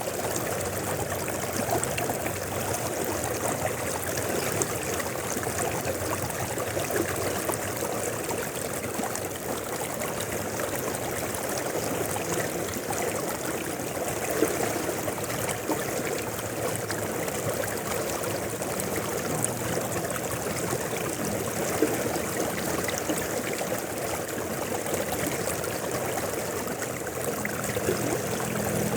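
Mountain river flowing steadily, a continuous rushing and bubbling of water.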